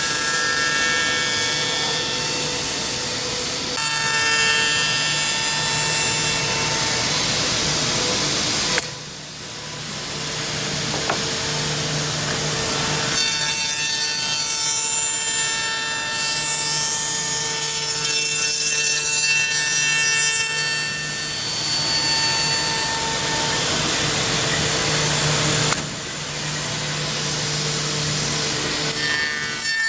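Single-head CNC tenoning machine cutting wood, a steady run of cutter and motor noise with a constant hum. The sound drops off sharply about nine seconds in and again near the end, then builds back up each time.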